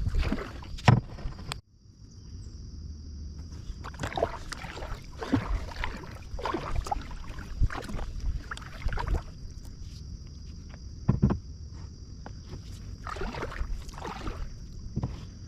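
Kayak paddle strokes dipping and pulling through calm water, an uneven splash-and-swish every second or two, with a thin steady high-pitched tone behind them.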